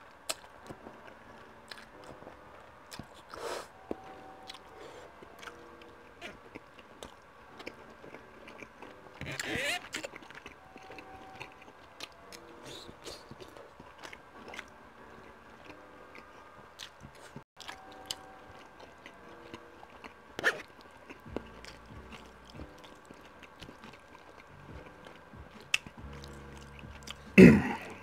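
Close-miked chewing and eating of spaghetti and a sub sandwich: many small wet mouth clicks, with a few louder noises here and there, the loudest near the end.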